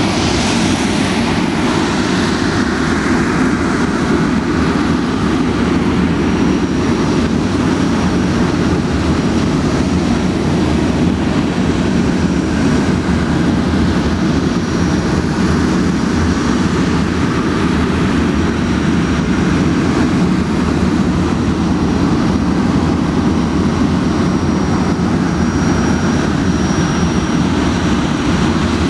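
Boeing 737-400's CFM56 jet engines running with a loud, steady sound that does not rise or fall.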